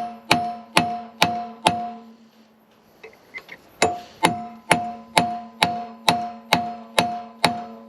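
Hammer blows on a steel punch, about two a second, each with a metallic ring, used to drive a stuck bearing out of a mower part. A short run of blows breaks off for a couple of seconds with a few light taps, then a longer run of steady blows follows.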